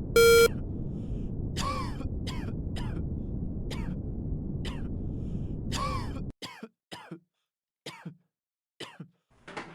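A short electronic beep signals the start of the preparation time. It is followed by repeated short throat-clearing sounds over a steady low hum of added test-room noise; the hum cuts off suddenly about six seconds in while the throat clearing goes on.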